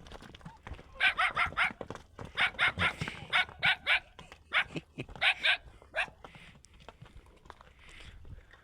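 A dog barking in quick runs of short, sharp barks, several a second, for the first six seconds or so, then stopping.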